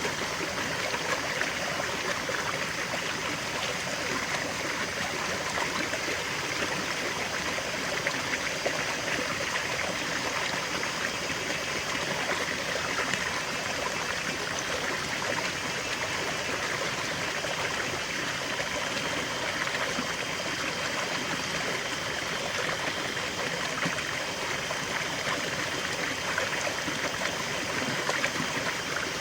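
River water flowing and babbling steadily over rocks, a continuous rush with fine trickling detail.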